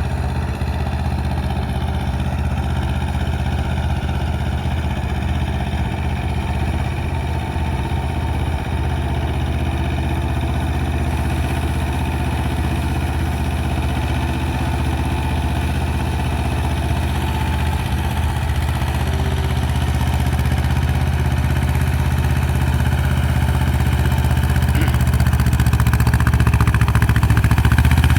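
Mahindra Jivo 245 DI tractor's diesel engine running steadily, growing slightly louder over the last several seconds.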